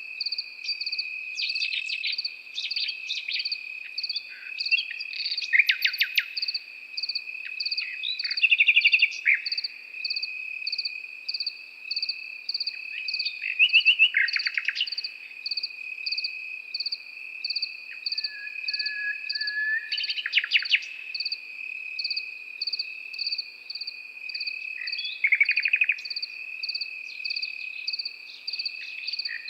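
Nightingale singing in separate phrases of rapid repeated notes, one with a long pure whistle, over crickets: one trilling steadily and another chirping in a pulsing rhythm about twice a second.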